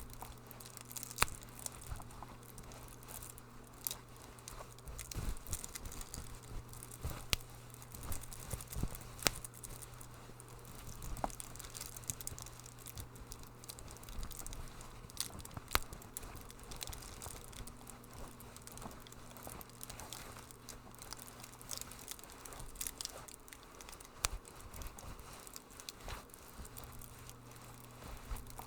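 Wood fire crackling, with irregular sharp pops and snaps over a soft hiss and a low steady hum.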